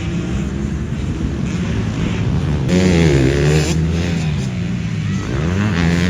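Motocross bike engine running under throttle, its pitch dipping and rising again about three seconds in, where it is loudest, then climbing once more near the end.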